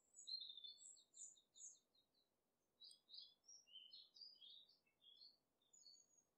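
Faint birdsong: a bird singing a quick trill of high notes, then a string of varied high chirps.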